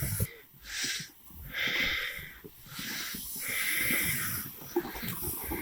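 Heavy, wheezy breathing of a man hauling a loaded pulk sled through snow: about four long breaths, each roughly a second long, with short pauses between them. The breathing comes from the effort of the haul.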